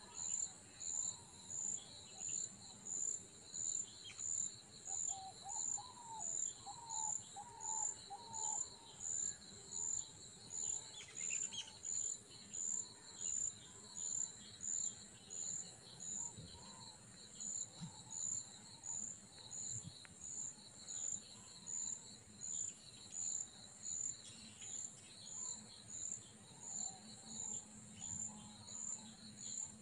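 Insects chirping: a very high-pitched pulse repeating about once a second over a steady high buzz, with occasional bird chirps.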